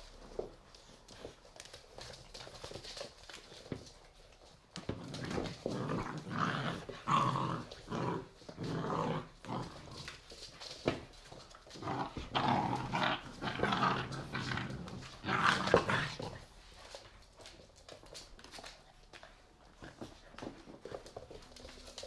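Three-month-old pit bull puppies play-fighting, growling in loud bouts through the middle stretch, with scuffling and light clicks before and after.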